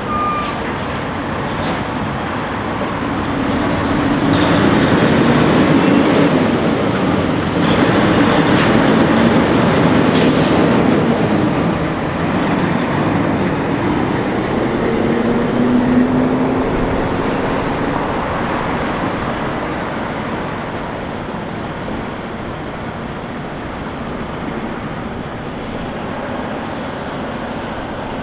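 Semi trucks passing on a road: engine and tyre noise that swells over the first ten seconds or so and then eases off, with engine notes sliding in pitch as they go by.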